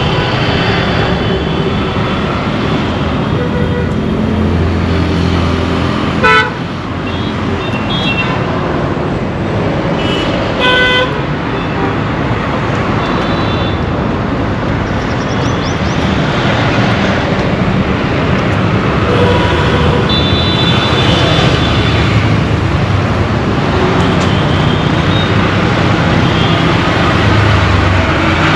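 Dense Indian road traffic: steady engine and tyre noise with frequent vehicle horns honking, including two short loud blasts about six and eleven seconds in.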